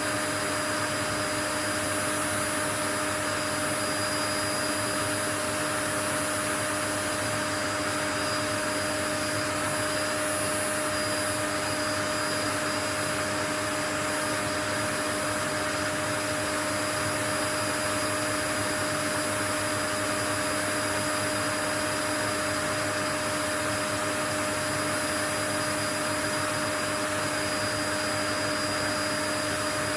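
Steady white noise from a running household appliance motor: an even rush of air with a constant low hum and a thin high whine, unchanging throughout.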